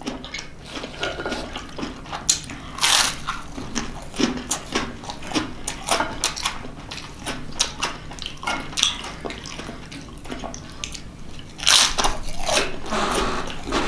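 Close-up eating sounds: a man chewing vegetable stir fry and rye crackers, with many short mouth clicks and crunching bites, busier and louder near the end.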